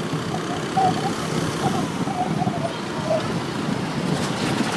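Motorcycle under way in town traffic: steady engine and road noise.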